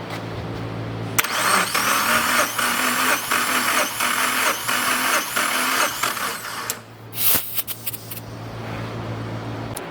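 Subaru FA20F flat-four being cranked on its starter motor for a compression test, turning over for about five seconds with an even pulse about twice a second. A short sharp burst of noise follows about two seconds after cranking stops, over a steady low hum.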